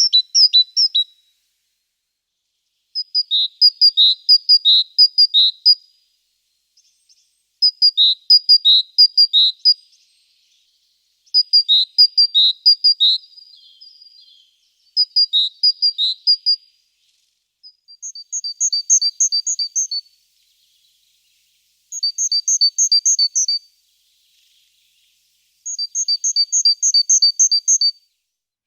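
A small songbird singing, repeating a phrase of quick, clear high notes. There are seven phrases, each two to three seconds long, with short pauses between them.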